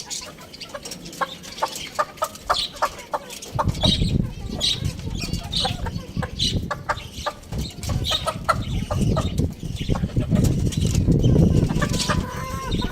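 Chickens clucking, with many short clicks among the calls; a low rumble sets in a few seconds in.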